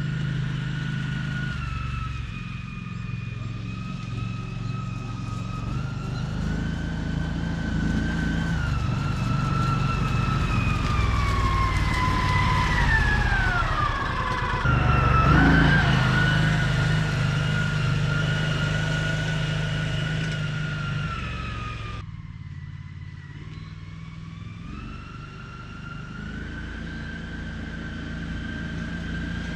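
American Landmaster L5 UTV with a 570cc Vanguard engine running while driving, with a high whine over the engine hum. The whine falls in pitch about halfway through and then rises again. Near the end it drops out and the sound gets quieter for a few seconds before picking back up.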